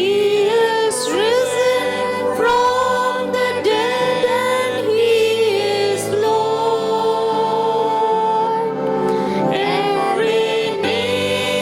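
A Christian worship song: sung vocals over steady instrumental accompaniment.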